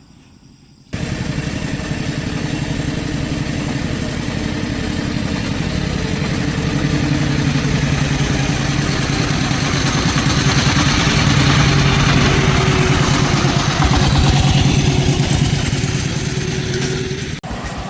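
An engine running steadily with a rapid, even firing pulse. It comes in abruptly about a second in, grows somewhat louder in the middle, and drops out for an instant near the end.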